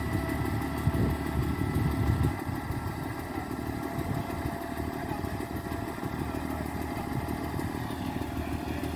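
Concrete pump truck's diesel engine running steadily, a little louder and rougher for the first couple of seconds before settling.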